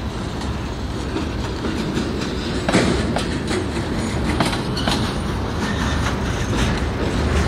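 Freight train cars (log-loaded flatcars and tank cars) rolling past at close range: a steady low rumble of wheels on rail with scattered wheel clicks and a louder clank nearly three seconds in.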